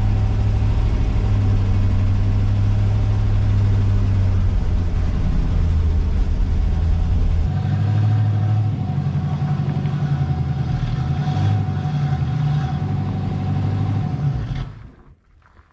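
The 1969 Ford Mustang's engine running steadily, its note changing about halfway through, then stopping near the end.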